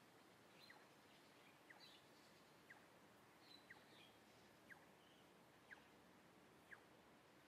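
Faint bird chirps over quiet city background noise: a short falling chirp repeats steadily about once a second, with a few scattered higher chirps in between.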